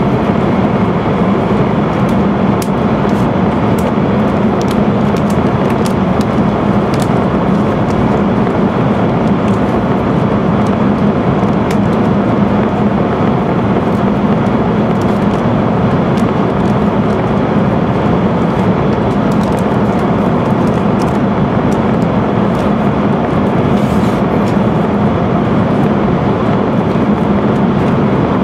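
Steady running noise of an E5-series Shinkansen at speed, heard from inside the passenger cabin while the train runs through a tunnel, with a low steady hum under the rushing noise.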